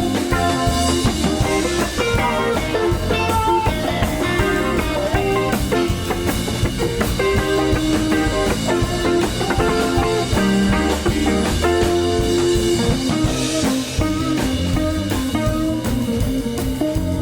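Live rock band playing an instrumental passage without vocals: electric guitars over bass and a drum kit, recorded through a camcorder microphone.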